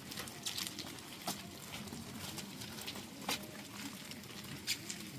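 Raindrops pattering, single drops ticking sharply at irregular moments over a low steady hiss of rain.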